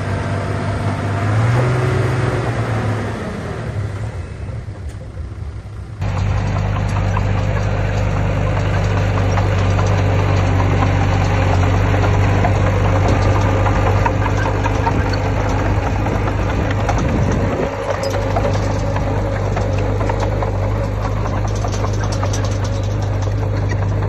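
Heavy diesel engine of earthmoving machinery running, its note rising and then dropping away over the first few seconds. About six seconds in the sound cuts abruptly to a louder, steady diesel drone with a low hum and some rattle.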